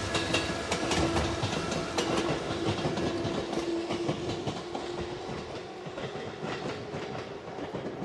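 JR 213-series electric train (La Malle de Bois set) passing and pulling away, its wheels clicking over the rail joints. The clatter is loudest at first and fades steadily as the train recedes.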